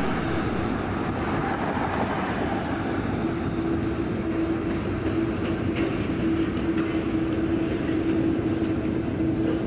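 Freight train's empty well cars and gondola rolling past, a steady rumble of wheels on rail, with a steady tone joining in about three seconds in.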